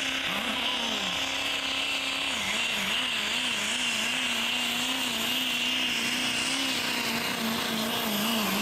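Pickup truck engine running hard at high revs under load during a truck pull, its pitch wavering up and down as the truck drags the weight sled.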